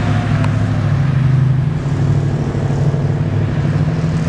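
A car engine running with a steady low rumble as it cruises slowly by.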